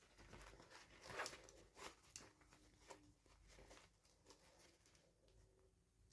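Faint handling noises from unboxing small toys: soft rustles and light clicks, the strongest about a second in, with a few more after it.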